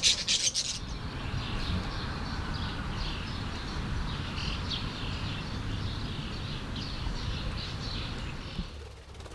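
A flock of budgerigars chattering and chirping continuously, with a few louder calls close by in the first second, over a low steady rumble.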